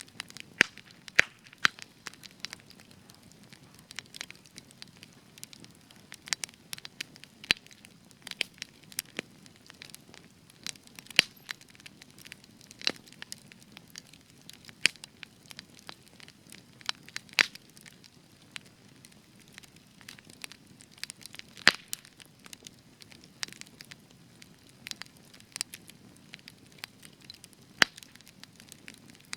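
Spruce wood burning in a campfire, crackling with frequent sharp, irregular pops over a faint low hiss of the flames.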